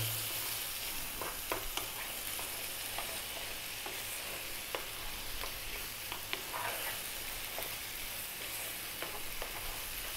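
Chopped tomatoes and onions frying and sizzling in oil in a nonstick frying pan over high heat, while a wooden spatula stirs them, scraping and tapping the pan in short sharp clicks here and there.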